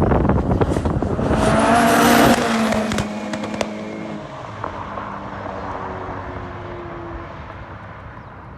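A car engine under hard acceleration passing close by, loudest about two seconds in, then dropping in pitch and fading away as it drives off.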